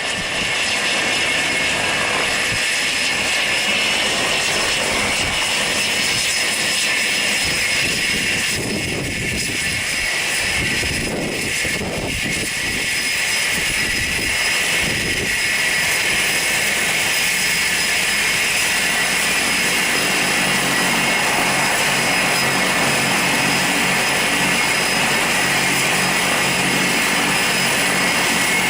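Airbus A318's Pratt & Whitney PW6000 jet engines running at low power, a steady loud roar with a high whine over it; a rougher rumble passes through the middle and a low hum joins about two-thirds of the way in.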